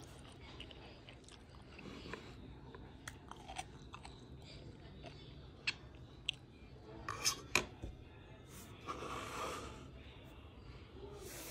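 Close-up chewing and mouth sounds of someone eating Vietnamese pork sausage, with a few sharp clicks of a fork against the bowl between about six and eight seconds in.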